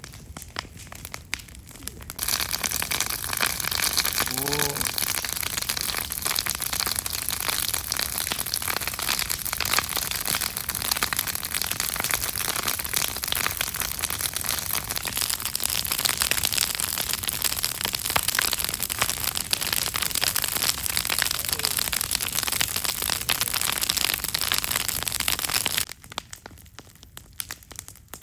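Campfire burning hard: many fast pops and crackles over a steady hiss. It starts suddenly about two seconds in and cuts off just as suddenly near the end.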